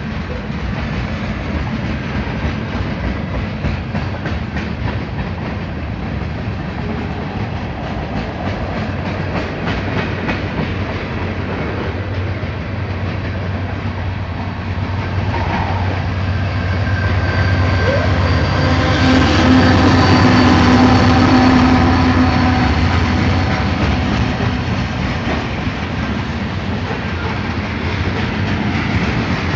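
A mixed freight train rolling past, its cars' wheels clicking and clattering over the rail joints over a steady low hum. It swells louder about two-thirds of the way through, with some thin high ringing tones over the rumble.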